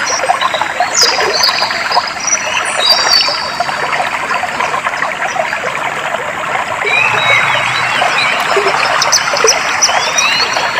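Clear water flowing and trickling steadily, with birds chirping at intervals over it, in the first few seconds and again in the second half.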